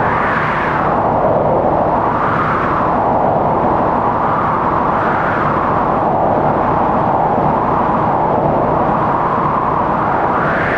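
Strong winter storm wind howling: a steady rushing noise that swells up in pitch and falls back every couple of seconds.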